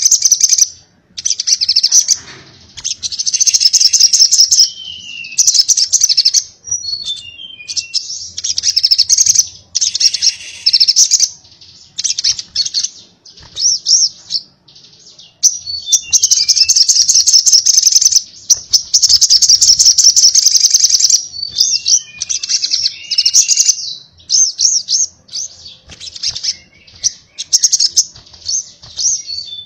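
Sogok ontong (little spiderhunter) singing: long, rapid, high trills repeated with short gaps, broken by a few runs of falling chirps.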